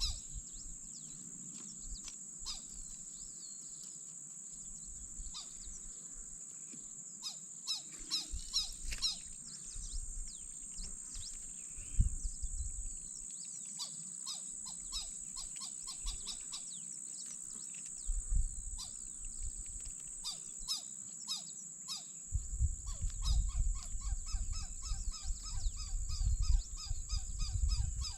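Wild birds chirping and calling in repeated short notes, over a steady high-pitched drone. Low rumbles come and go and grow stronger near the end.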